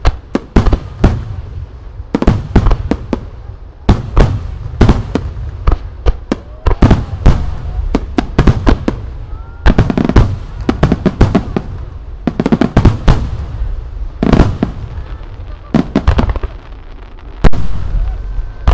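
Starmine fireworks barrage: aerial shells bursting in rapid volleys, loud sharp bangs coming in dense clusters several times a second, with the sharpest single bang near the end.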